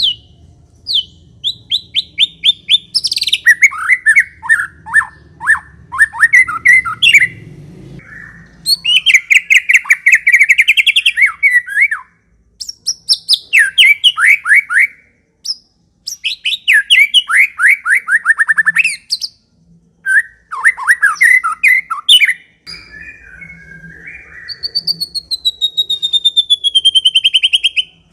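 White-rumped shama (murai batu) singing in phrases of rapid, fast-repeated chattering notes, the 'ngekek' style, each run lasting a few seconds with short pauses between. Near the end comes a longer series of notes falling slowly in pitch.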